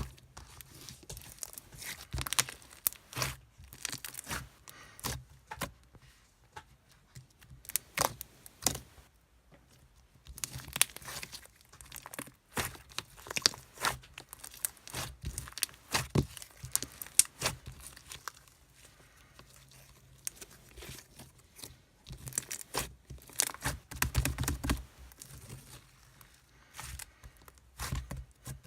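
Irregular crinkling, crackling and tearing sounds of something handled close to the microphone, in bursts of clicks with short pauses between them.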